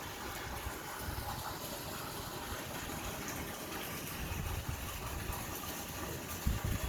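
Steady hiss of falling rain, with irregular low rumbles of wind buffeting the microphone, strongest near the end.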